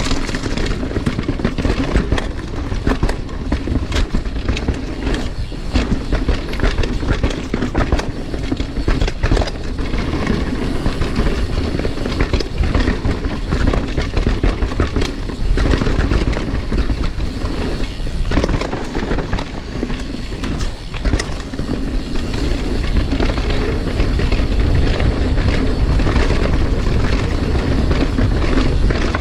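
Mountain bike riding a dirt trail: a steady rumble of tyres and wind on the microphone, with frequent short clicks and clatters from the bike.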